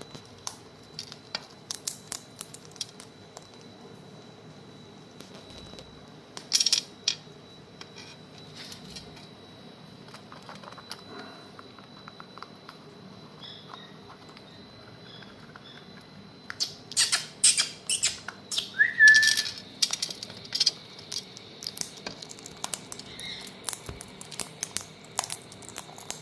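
Indian ringneck parakeets eating: irregular sharp clicks and cracks of beaks working food, in scattered clusters that grow busiest in the last third, with one short rising chirp about two-thirds of the way through.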